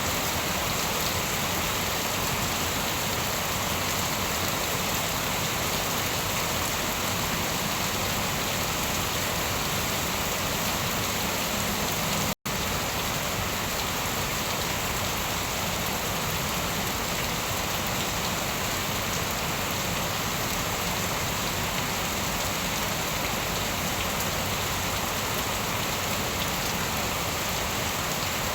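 Steady rain falling on a surface, an even unbroken hiss with no thunder heard. It cuts out for an instant about twelve seconds in, then resumes unchanged.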